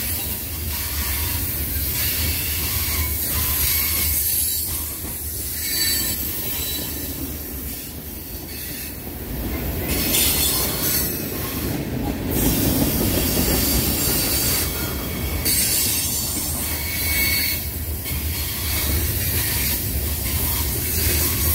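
Freight cars (covered hoppers and tank cars) rolling past close by: a steady rumble of steel wheels on rail with high-pitched wheel squeal coming and going.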